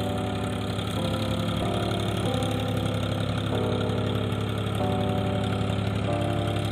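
Powertrac tractor engine running steadily in low gear while pulling a Shaktiman rotavator through heavy wet mud to puddle a rice field. Over it runs a series of held tones that jump to a new pitch about once a second.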